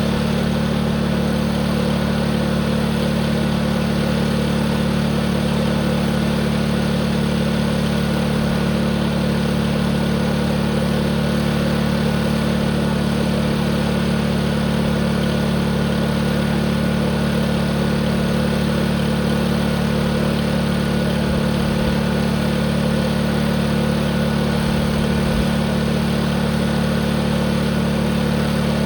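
Tractor engine running at a constant speed, with a steady, unchanging note throughout.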